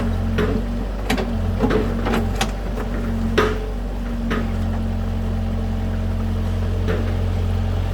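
An engine running steadily at idle, with a few irregular sharp knocks over it, like stones being dropped.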